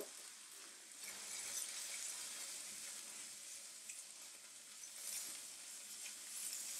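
Chopped onion and red bell pepper frying in oil in a wok, a steady sizzle, as chilli powder is stirred in with a silicone spatula. The sizzle picks up a little about a second in.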